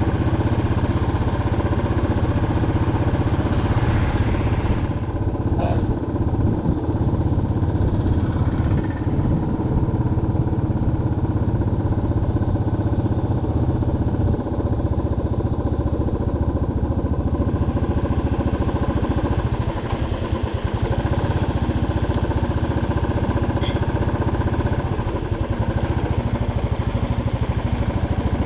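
Motorcycle engine running steadily while being ridden, heard from on the bike.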